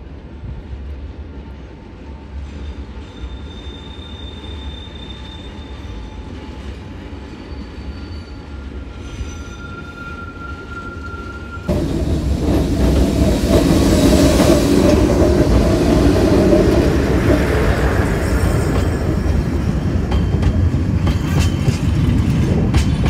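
Ikawa Line train descending the rack section behind its Abt-system electric locomotive: first approaching, with thin high wheel squeals, then, from about halfway in, passing close, loud with the rumble and rattle of its wheels on the rails.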